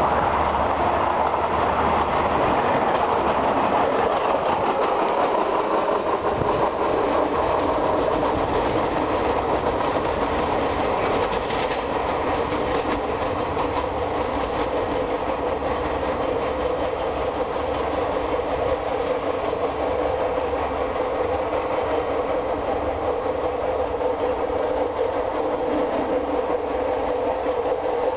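Diesel-hauled passenger train running on the rails, its wheels clattering steadily as it pulls away. The sound eases slightly about eleven seconds in, over a steady engine drone.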